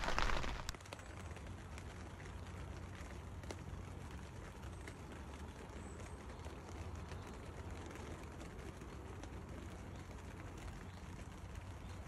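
Steady rain falling on a lake and the bankside plants: an even hiss dotted with many tiny drop ticks, over a low steady rumble. At the very start, louder rain drums on the fabric of a fishing bivvy, then cuts off suddenly.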